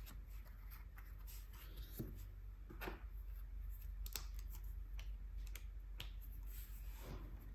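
Close-miked small handling sounds while swatching gouache: scattered light clicks and taps, with a few short scraping strokes.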